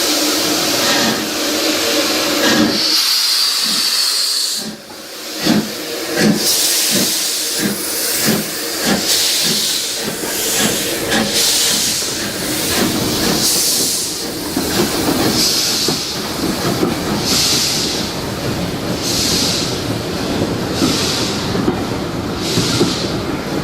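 Steam locomotive working a train, its exhaust beats coming about once a second, with a brief hiss of steam a few seconds in.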